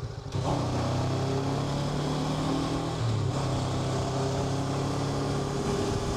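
Honda NX500's parallel-twin engine running steadily under way, with a brief drop in level just after the start and a slight shift in pitch about three seconds in.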